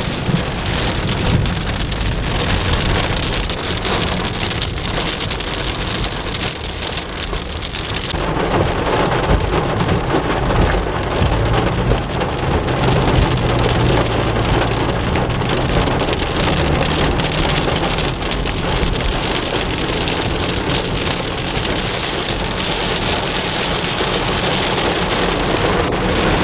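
Heavy rain pelting a moving car's roof and windshield during a thunderstorm, becoming heavier about eight seconds in, over the steady low rumble of the car.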